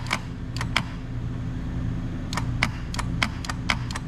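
Starter solenoid on a diesel backhoe engine clicking again and again at irregular intervals without cranking the engine, over a steady low hum. This points to a dead battery.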